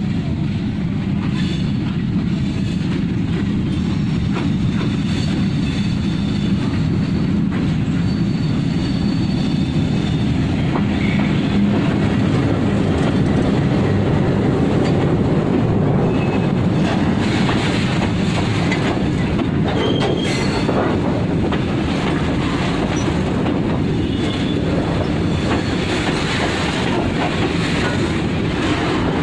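Diesel-hauled freight train of covered bogie goods wagons running past close by. The locomotive's engine rumble is loudest as it goes by about halfway in, then the wagons' wheels clatter steadily over the rail joints.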